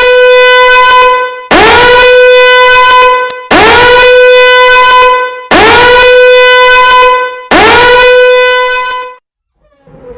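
Air horn sound effect: five long, loud blasts about two seconds apart, each scooping up at its start to one steady pitch.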